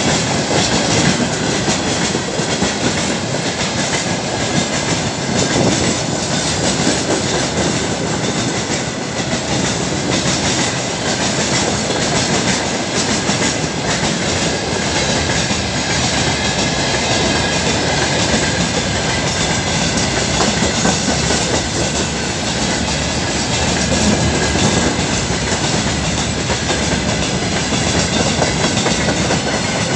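Freight train wagons (tank cars, then open gondolas) rolling past close by. Their wheels make a steady loud rumble, with a dense clickety-clack of clicks as they cross the rail joints.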